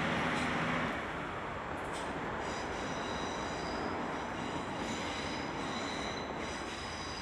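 A Turbo diesel multiple unit pulling away, its running and wheel noise dropping back after about a second. From about two and a half seconds in there is a high-pitched wheel squeal as it takes a curve.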